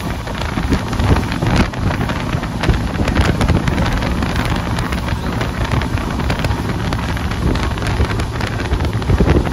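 Express passenger train running at high speed, heard from an open coach window: wind buffets the microphone over the steady rumble of the train, with many quick clicks and clatters from the wheels on the track.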